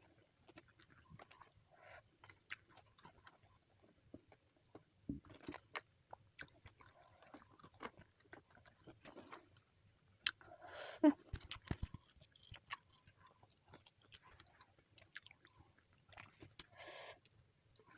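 A person chewing food close to the microphone, with scattered small clicks and crunches of the mouth and bites.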